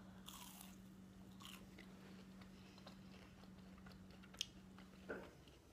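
Faint crunching and chewing of a battered, fried onion ring: a bite near the start, then soft crunches as it is chewed. A low steady hum runs underneath and stops about five seconds in.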